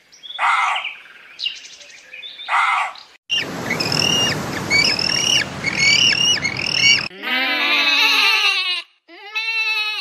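A quick run of different animal calls. First come two short calls, then a penguin colony's repeated chirping calls over a steady hiss for about four seconds. Last come two long, wavering bleats.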